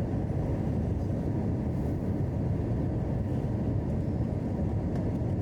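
Steady low rumble inside the cabin of an Airbus A321 airliner: the noise of its engines and the air rushing past the fuselage.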